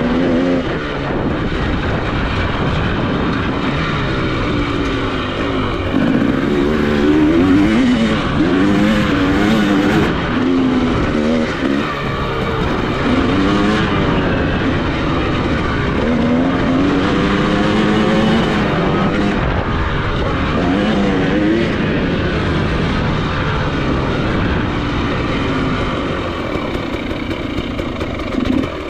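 Dirt bike engine being ridden hard, revving up and dropping back over and over as the rider works the throttle and gears, with constant wind and track noise under it.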